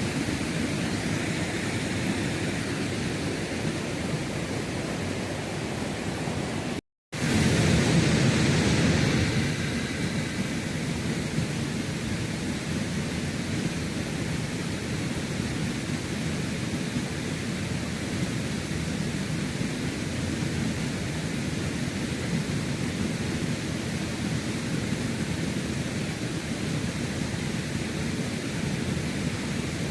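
Steady rushing of flowing creek water, an even hiss with no distinct events. About seven seconds in the sound cuts out for a moment, then comes back louder for a few seconds before settling again.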